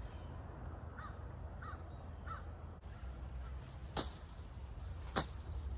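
A bird calls three times in quick, even succession, each call short and dropping in pitch. About four seconds in come two sharp clicks a second apart, the second the loudest sound, over a steady low rumble.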